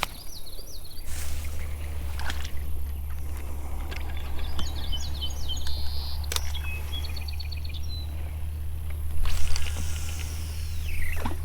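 Birds chirping in short trills over a steady low hum, with a few sharp knocks.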